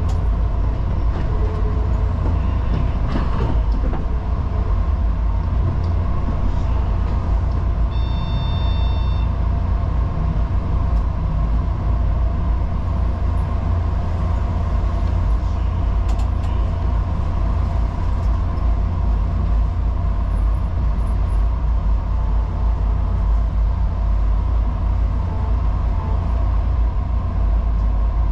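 Electric commuter train running on its track, heard from inside the driver's cab: a steady low rumble of wheels on rails. About eight seconds in there is a brief high ringing tone lasting about a second.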